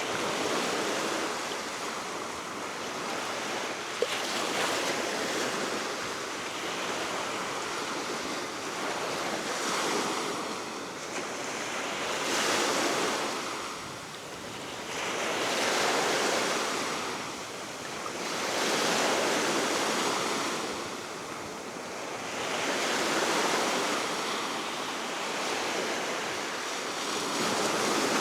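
Baltic Sea waves washing onto the shore, swelling and falling back every three to four seconds, over a steady wind. A brief sharp click about four seconds in.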